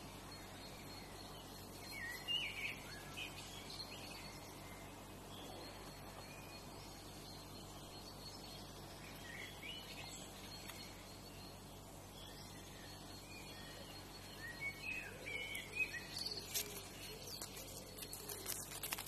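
Birds chirping in short, scattered calls over a faint steady hiss and a thin, steady high tone. A few sharp crackles come near the end.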